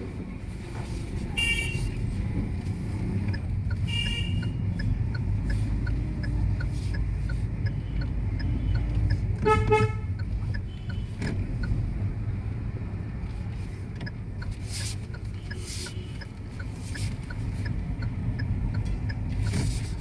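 Steady low rumble of a road vehicle, with short horn toots a few times; the loudest, a longer blast, comes about halfway through. Faint regular ticking at about two a second runs under it for stretches.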